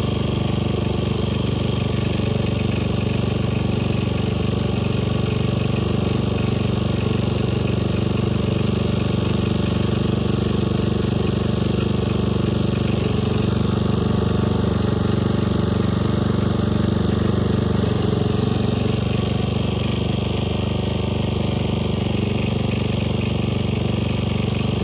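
Snapper riding mower's engine running at a steady speed while the mower is driven up a steep incline, a test of whether its rebuilt clutch still slips.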